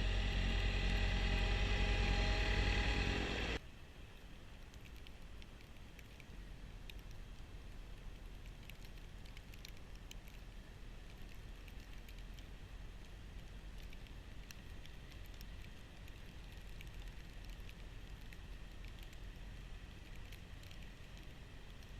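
Kubota B2650 compact tractor's diesel engine running steadily under snowblower load, cutting off abruptly a few seconds in. After that there is a much quieter steady low hum with faint scattered ticks.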